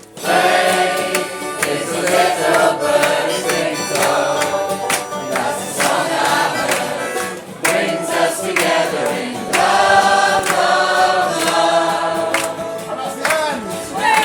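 A group of voices singing a song's chorus together, with sustained sung notes and a rhythmic accompaniment.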